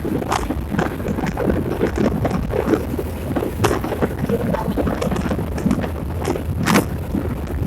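Wind buffeting the microphone over the rumble of a vehicle travelling a rough road, with frequent short knocks and rattles.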